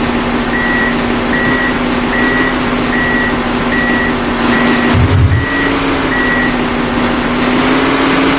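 Reversing alarm on a heavy vehicle beeping eight times, about one beep every 0.8 seconds, then stopping about two-thirds of the way through, over the steady running of the vehicle's diesel engine.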